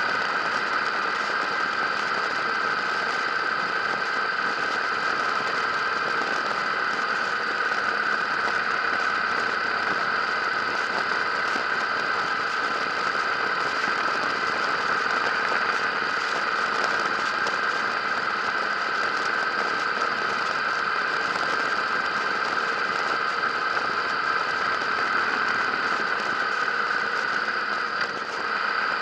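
Harley-Davidson motorcycle engine running steadily at cruising speed, with rattle and road and wind noise from the moving bike. The sound dips briefly near the end.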